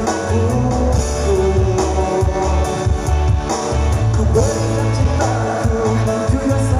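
Male vocalist singing an Indonesian pop song over amplified backing music with a heavy bass line.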